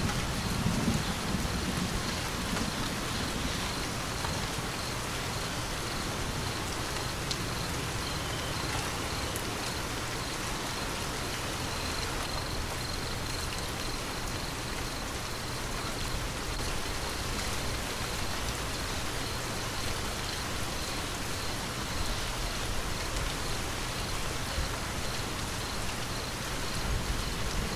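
Steady rain falling, an even hiss with drops. A thunder rumble dies away in the first second, and the next one begins to build right at the end.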